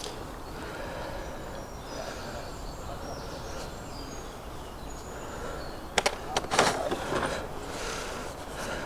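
Outdoor background with small birds singing in short high notes, then a quick cluster of sharp clicks and rattles about six seconds in, like fishing tackle being handled.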